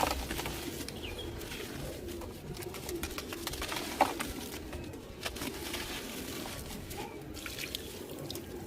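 Pigeons cooing in the background, with scattered sharp crunches of dry clay crumbling, the loudest about four seconds in.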